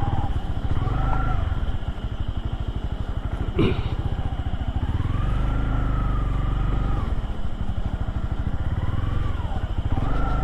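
Motorcycle engine running steadily at low revs, with a sharp click about three and a half seconds in.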